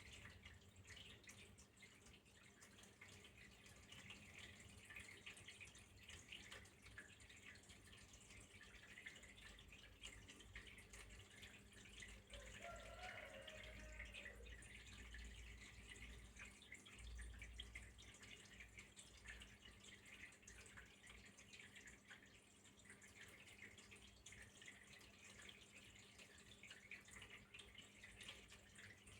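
Faint water trickling and dripping, made of many small drips over a steady low hum. A short, faint wavering sound comes about halfway through.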